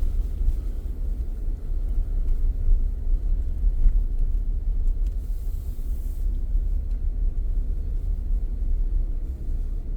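Steady low rumble of a car driving, heard from inside the car, with no sharp events.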